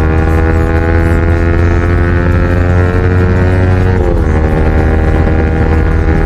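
Yamaha R15 V4's 155 cc single-cylinder engine running through an Akrapovic full-system exhaust under acceleration while riding: the exhaust note climbs slowly in pitch, dips about four seconds in, then climbs again.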